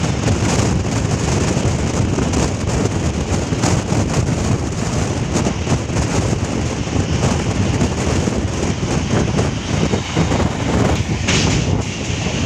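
Kolkata suburban local train (an electric multiple unit) running along the track: a steady rumbling rush of wheel and track noise with many short clicks from the rail joints.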